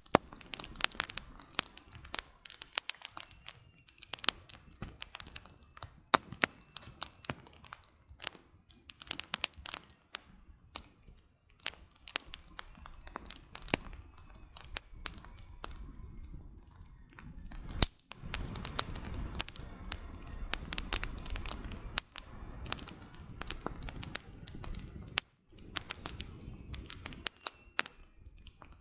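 Campfire crackling: burning firewood giving dense, irregular sharp pops and snaps. A low rumble swells under the crackle for several seconds past the middle.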